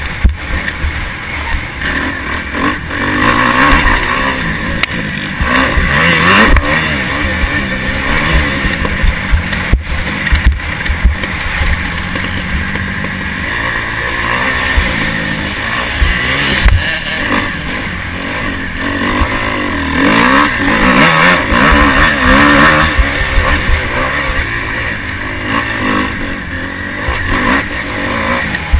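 Motocross bike engine heard from a camera mounted on the bike, revving hard and repeatedly rising and falling in pitch as the rider accelerates, shifts and backs off. A rough low rumble runs underneath.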